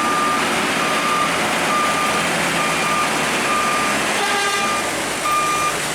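Truck reversing alarm beeping about once a second over a truck engine running steadily. A short tone with several pitches sounds briefly a little past four seconds in.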